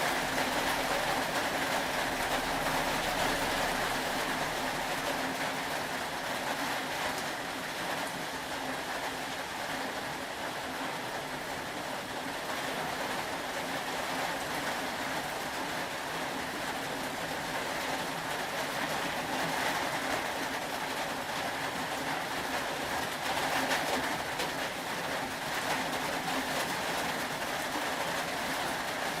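Steady rain falling, an even hiss with fine scattered drops that swells slightly a couple of times.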